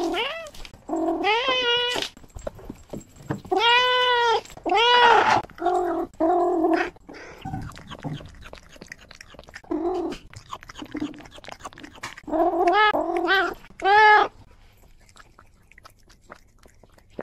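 Domestic cat meowing close to the microphone, about nine short meows that rise and fall in pitch, in clusters with pauses, while asking for food. After about fourteen seconds the meowing stops and only faint small clicks of chewing remain.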